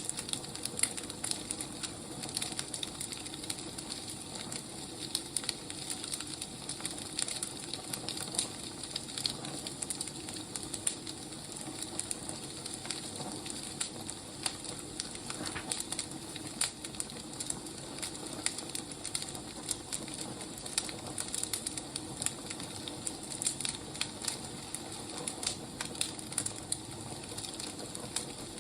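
Firewood burning, crackling: a steady hiss with frequent small irregular pops and snaps.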